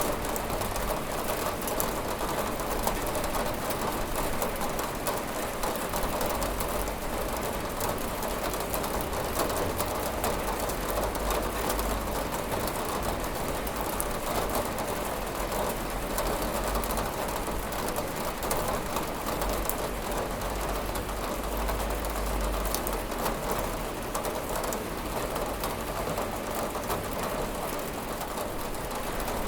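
Steady rain falling on a window: an even, unbroken hiss with a fine patter of drops.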